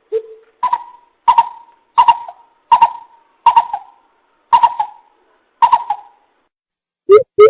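Greater coucal calling: a series of hollow hoots, about one every 0.7 s. Near the end comes a faster run of lower hoots, about four a second. This is a recorded lure call.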